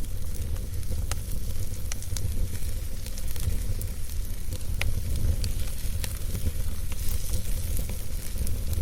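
Wood campfire burning: irregular sharp crackles and pops, several a second at times, over a steady low rumble and a soft hiss.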